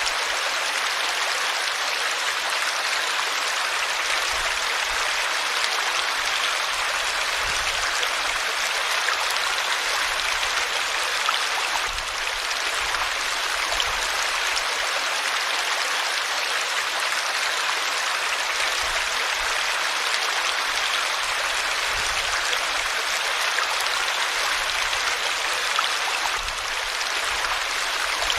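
River water flowing and rushing steadily over rocks, an even hiss-like wash of white water with no break.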